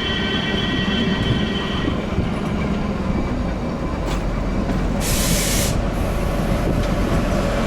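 Narrow-gauge toy train carriage running on the rails with a steady rumble, its wheels squealing in a high ringing tone for about the first two seconds. A short burst of hiss comes about five seconds in.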